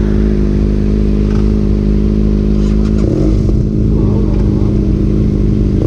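Motorcycle engine running steadily under way, with its note changing abruptly about halfway through.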